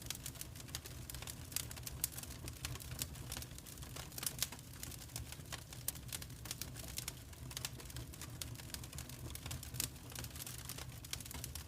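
Wood fire crackling in a fireplace: a dense run of sharp, irregular snaps and pops with a few louder cracks, over a steady low rumble.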